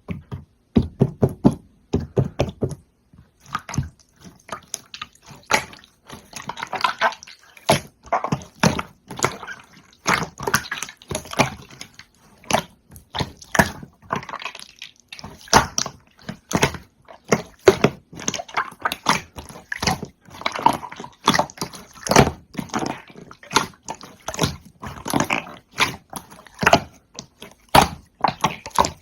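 Slime being squished and pressed by hand, with irregular wet, sticky clicks and pops.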